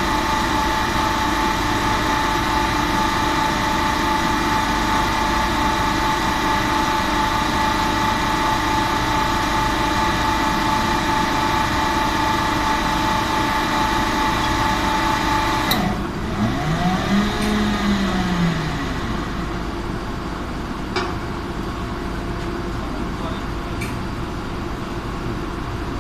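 Steady machine hum with several steady tones, which cuts off abruptly with a click about sixteen seconds in. A brief rising-and-falling tone follows, then a quieter steady background noise with a couple of faint clicks.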